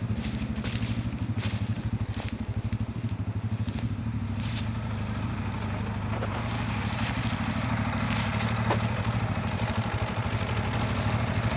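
ATV engine idling steadily, with scattered sharp cracks and snaps over it, most in the first few seconds.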